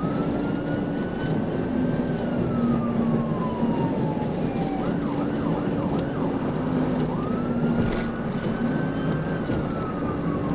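Police car siren wailing with a slow rise and long fall, switching to a few quick yelps in the middle, then wailing again. Underneath it is a steady hum of engine and road noise from a patrol car at speed.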